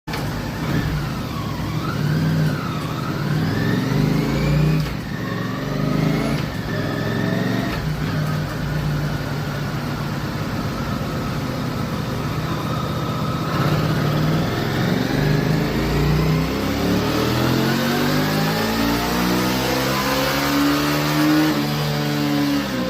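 1983 Honda CX650 Turbo's turbocharged V-twin running on a chassis dynamometer: a few rises and falls in engine speed, then a steady stretch. In the second half comes a full-throttle pull, its pitch climbing steadily from just under 2,000 rpm to about 7,000 rpm at the red line, and it drops off right at the end.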